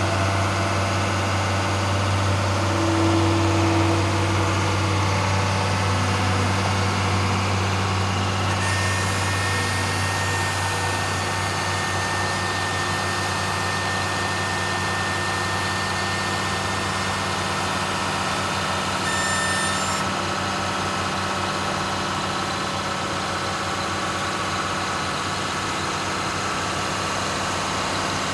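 Cat 3116 diesel engine of a Barber Greene BG260B asphalt paver running steadily at a constant speed. A thin, steady whine joins about nine seconds in and stops about twenty seconds in.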